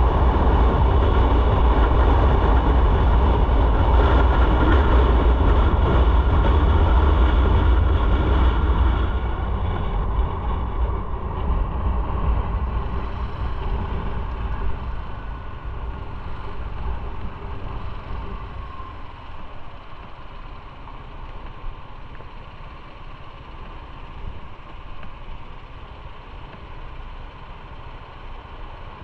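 Motorcycle riding with heavy wind rush on the microphone over the engine. The rush drops off about nine seconds in and keeps fading.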